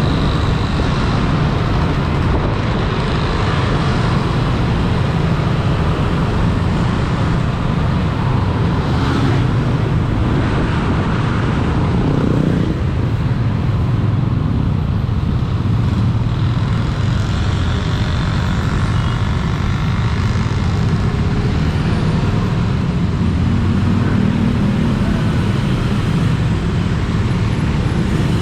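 Steady road traffic noise: a continuous low rumble of vehicle engines and tyres on the road, with no clear single event standing out.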